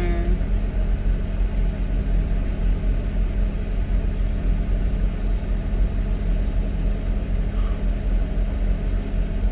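A car's engine idling steadily while the car stands still, heard from inside the cabin as an even low rumble with a constant hum.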